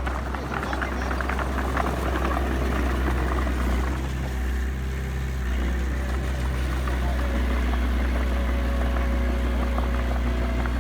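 Heavy diesel engine of an earth-moving machine running steadily with a deep rumble, with clattering and rattling over the first few seconds.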